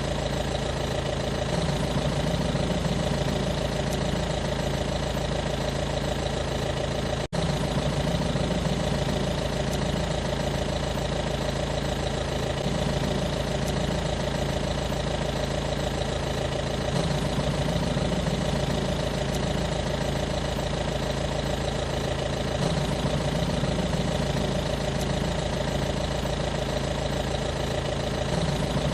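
A motor or engine running steadily at a constant pace, with a momentary drop-out about seven seconds in.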